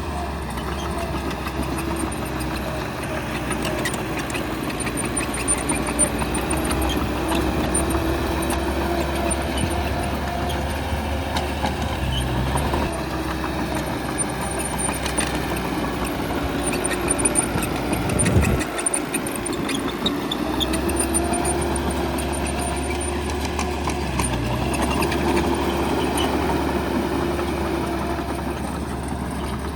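Bulldozer's heavy diesel engine running as it works, its note slowly rising and falling, with a brief low thump past the middle.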